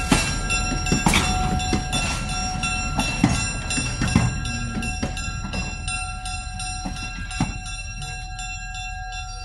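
Railroad cars rolling slowly past behind a switcher engine, their wheels knocking irregularly over the rail joints under a steady high ringing tone, gradually fading as the cars move away.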